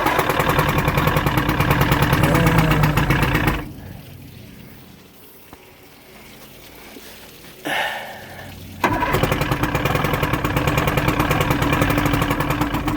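Johnson 115 HP two-stroke outboard being cranked over twice, each try lasting about three and a half to four seconds, with a short burst of sound between them; it does not stay running. Two of its spark plug wires are disconnected, which is why it will not run well.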